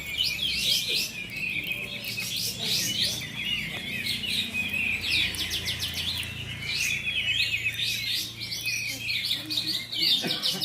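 Several caged songbirds singing at once in a contest chorus, a dense overlap of rapid chirps, whistled phrases and trills with no pause.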